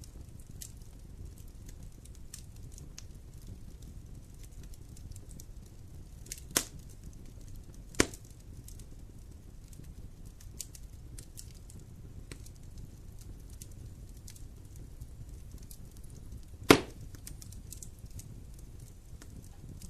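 Wood campfire crackling: a low steady hiss of burning with frequent small ticks and three loud sharp pops, the loudest about three-quarters of the way through.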